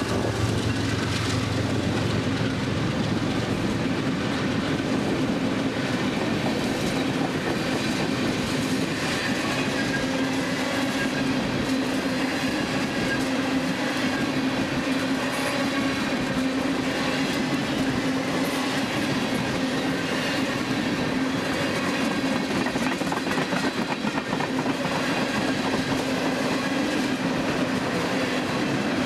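Freight train rolling steadily past, cars rumbling and wheels clicking over the rail joints, with a steady low tone running underneath.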